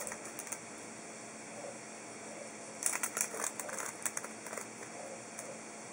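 Bursts of dry crackling and rattling as a cicada flutters and scrabbles while cats paw at it, loudest about three to four and a half seconds in.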